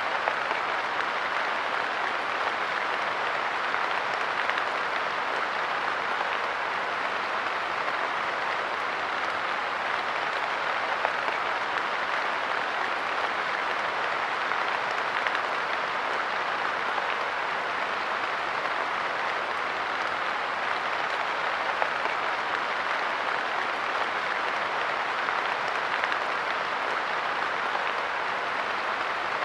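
Steady light rain pattering on a park bench, a dense, even patter of drops with no let-up.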